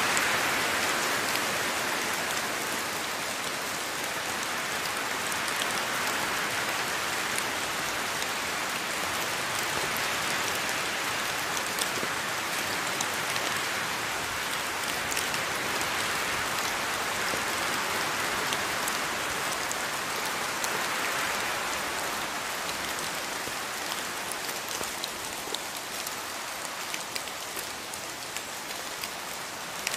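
Steady rain falling in a rainforest, a dense patter with scattered close drops ticking sharply, swelling and easing gently in strength.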